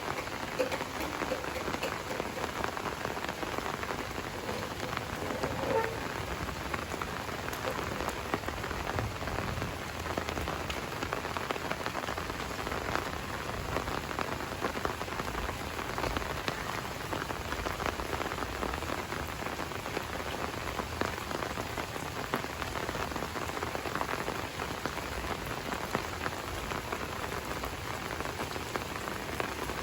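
Steady rain falling, with many separate drop hits heard through an even hiss.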